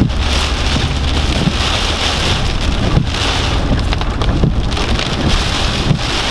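Hurricane rain and wind beating on a moving car, heard from inside the cabin: a steady hiss over a low rumble, with scattered knocks.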